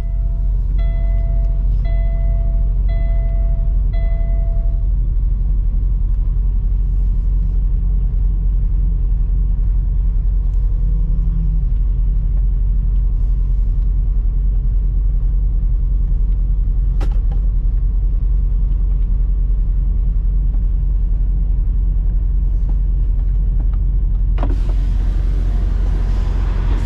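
Semi truck's diesel engine running with a steady low rumble from inside the cab. Four electronic warning beeps, about one a second, sound in the first few seconds, there is a single click in the middle, and a rushing hiss rises near the end.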